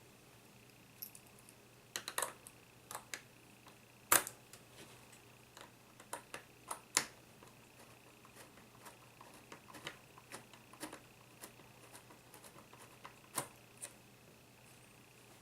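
Irregular small clicks and taps of laptop parts being handled and worked on during disassembly, the sharpest click about four seconds in.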